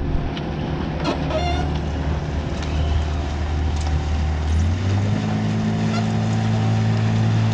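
Boat engine running steadily, its pitch stepping up about two-thirds of the way through as it is throttled up.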